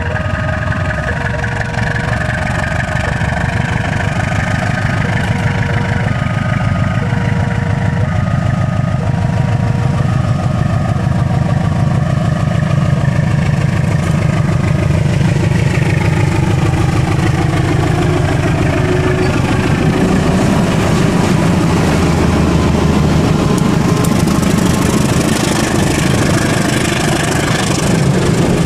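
Diesel-electric locomotive passing slowly with a heavy engine rumble, then its passenger coaches rolling by with rising wheel clatter during the second half. For the first half a level-crossing warning signal rings in two alternating tones, about one a second, then stops.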